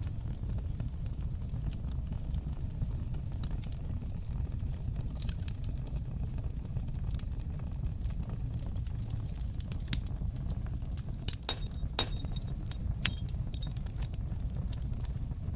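Fire crackling in a fireplace: a steady low rumble of flames under many small scattered pops and snaps, with a cluster of louder pops about two-thirds of the way in.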